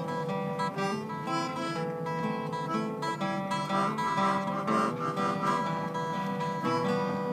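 Acoustic guitar playing a melody over chords, with notes changing every fraction of a second.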